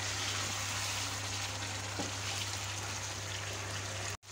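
Chicken and thick masala sizzling steadily in a nonstick pan as the masala is fried down until the oil separates, with a light spatula tap about two seconds in. The sound cuts out briefly near the end.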